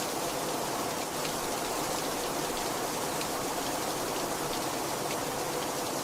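Heavy rain falling steadily, a dense even hiss with scattered drops ticking on a surface.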